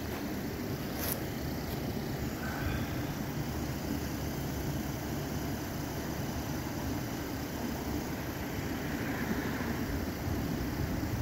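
Police SUV's engine idling: a steady low rumble, with a brief click about a second in.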